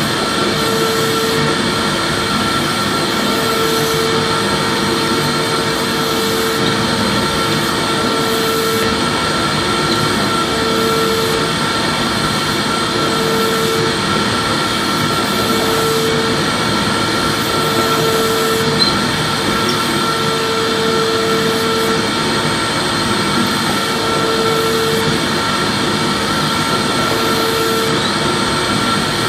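Vacuum cleaner running steadily, a continuous rushing whir with a steady high whine and a lower hum that comes and goes every second or two.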